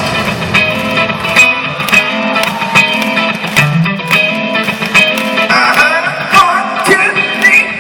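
Live rock band music with no singing: electric guitar over a steady drum beat, with a gliding guitar lead line in the last two seconds.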